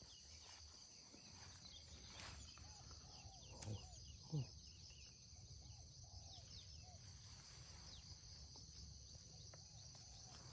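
Faint, steady high-pitched chorus of insects such as crickets, with a few soft chirps in the middle and two soft low knocks around four seconds in.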